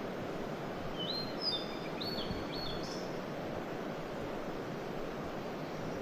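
Steady rush of a fast mountain stream, with a bird calling a short run of high, upslurred notes from about one to three seconds in.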